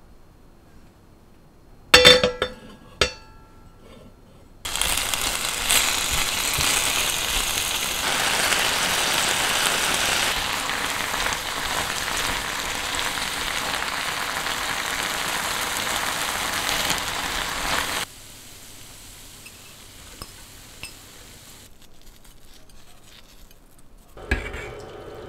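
Julienned potato strips sizzling in oil in a frying pan as they are stir-fried with a spatula; the steady frying hiss lasts about thirteen seconds and cuts off suddenly. Before it, a few sharp clinks of cookware.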